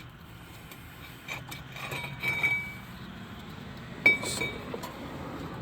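Brake caliper being worked off the rotor and hung up out of the way, with metal clinks, light knocks and brief ringing from the metal parts. A sharp ringing clink about four seconds in is the loudest.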